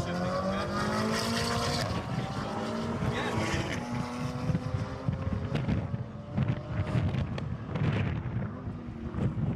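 Supercar engine running hard under acceleration, its pitch climbing steadily over several seconds, amid heavy road and wind noise.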